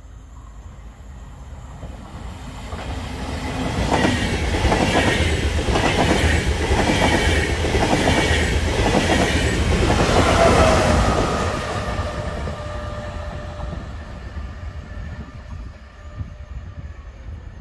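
Trenitalia double-deck regional passenger train running past the platform, its wheels clacking rhythmically over the rail joints with a faint high whine. It builds up over the first few seconds, is loudest from about four to eleven seconds in, then fades away.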